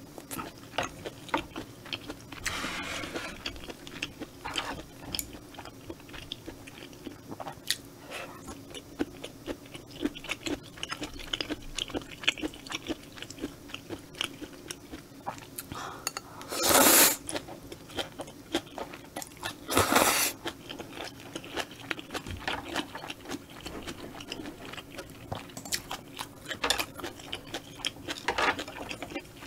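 Close-miked chewing and crunching of spicy stir-fried squid with bean sprouts and noodles, full of small wet mouth clicks. Two loud slurps of noodles come past the middle, about three seconds apart.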